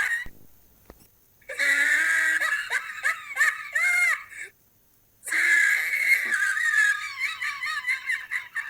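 Monkeys chattering and squealing in rapid high-pitched calls, in two long bouts with a short silent break between them.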